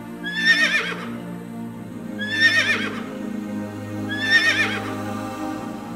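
A horse whinnying three times, about two seconds apart, over steady background music.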